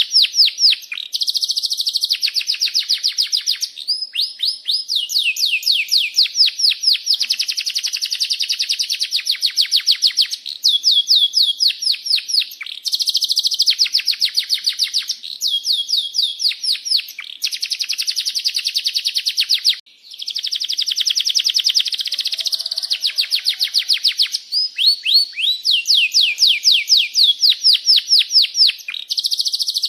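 Domestic canary singing a long, unbroken song of rapid rolls and trills, with fast runs of repeated downward-sweeping chirps changing every second or two. There is one brief break about twenty seconds in.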